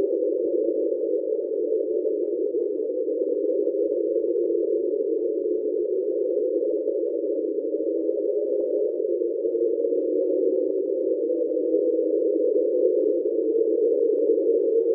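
NOAA's 1997 underwater hydrophone recording 'Train': a steady, unbroken drone sitting in a narrow low-to-mid band with faint tones running through it. NOAA attributes the sound to a large iceberg run aground.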